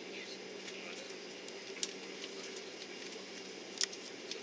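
Steady hum of an Airbus A330-300's cabin on the ground before takeoff, with two or three short clicks, the loudest near the end.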